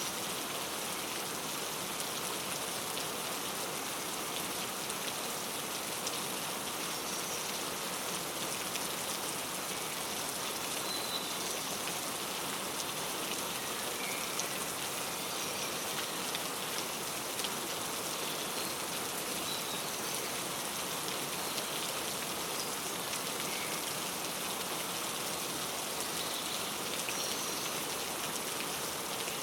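Steady rain pattering down, with a few faint, short bird chirps scattered through it.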